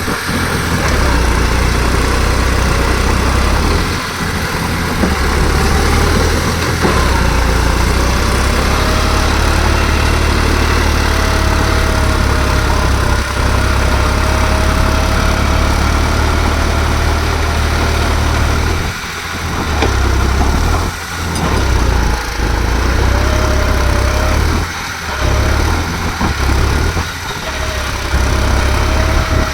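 New Holland tractor's diesel engine running steadily with a deep low rumble, which dips briefly several times in the second half.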